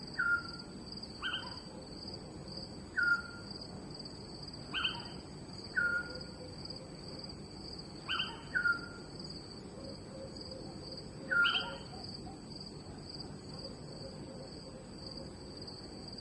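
Night chorus of crickets, a steady high trill throughout, with short chirping calls from another animal about every one to three seconds, each sliding down in pitch.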